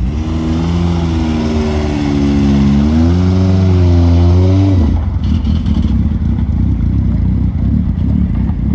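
A car engine revving, its pitch held up and wavering for about five seconds, then dropping into a rough, uneven rumble.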